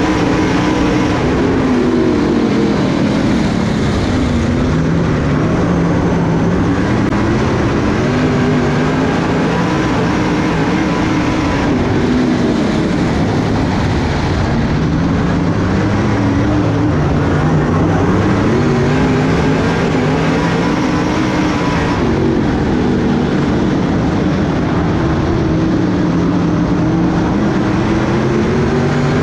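Dirt-track race car engine running hard, its pitch dropping and climbing again every several seconds as the car lifts off and gets back on the throttle around the turns.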